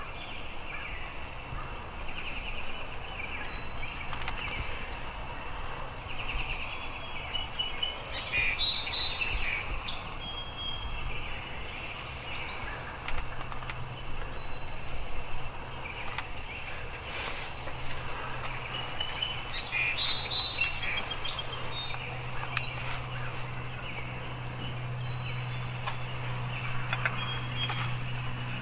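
Birds singing outdoors: a high, rapid song phrase heard twice, about twelve seconds apart, with thinner trills between. A low steady hum grows louder near the end.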